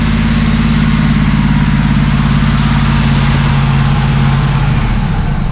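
1979 Camaro Z28's small-block V8 idling steadily on a freshly rebuilt Quadrajet carburettor; near the end its note weakens and breaks up as the engine falters.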